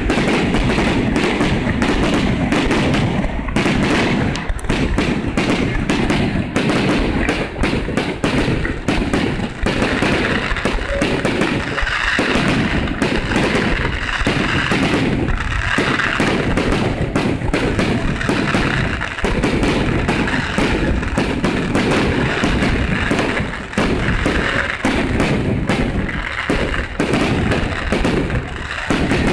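Aerial fireworks going off in a dense, continuous barrage: rapid overlapping bangs and crackling with no let-up.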